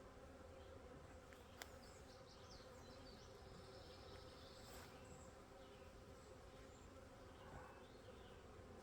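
Faint, steady hum of a honey bee colony's wingbeats as frames are worked open, with one light click about a second and a half in.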